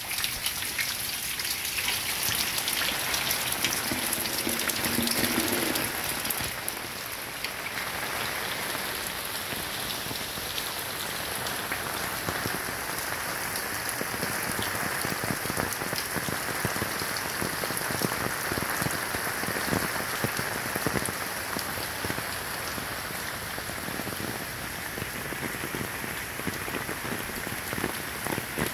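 Heavy hurricane rain falling steadily, a dense patter of drops on hard surfaces and the lawn, a little louder for the first several seconds.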